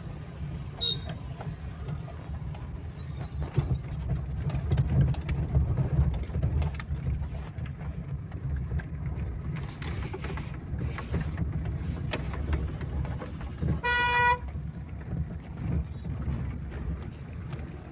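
A vehicle horn gives one short toot about 14 seconds in, over a steady low rumble with scattered faint knocks.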